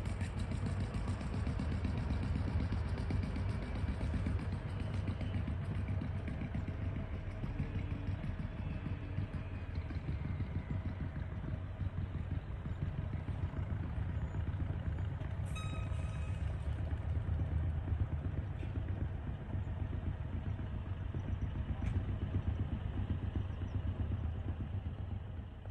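An engine running steadily under load, a constant low rumble with no change in pitch.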